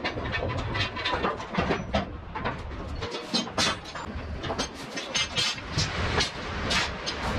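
Steel container lashing gear (lashing rods and turnbuckles) clanking and knocking irregularly, several sharp metal clanks a second, as it is unhooked and dropped during delashing.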